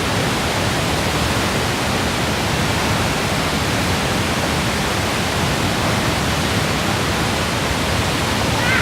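Waterfall rushing: a steady, full, unbroken roar of falling water.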